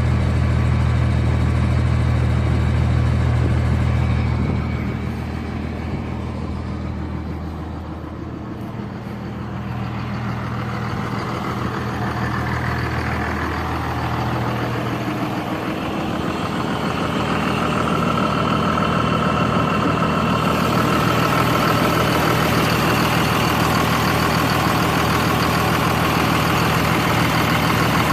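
Diesel pickup truck engine idling while it warms up after a cold start. It drops in loudness a few seconds in, then comes back up with more hiss near the end.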